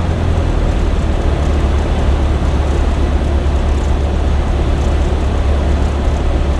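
Cessna 172M's four-cylinder Lycoming engine and propeller running steadily, a constant low drone heard from inside the cabin.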